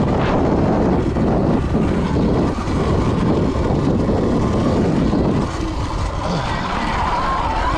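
Dirt bike riding along a trail: a steady, loud rush of wind and riding noise on the rider's mic, easing a little about five and a half seconds in as the bike slows.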